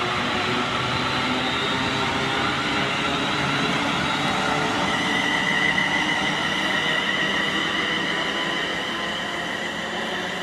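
A train running past: a steady rail noise with a high whine that comes in about halfway through, then fading near the end.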